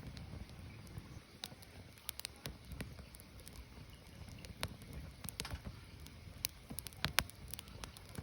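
Firewood burning: irregular crackles and pops from the logs over a low steady rumble of the fire, with the sharpest pops a little after seven seconds in.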